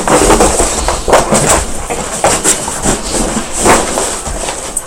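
A dog chewing and tearing a cardboard box: irregular crunching and ripping of cardboard, several bursts a second.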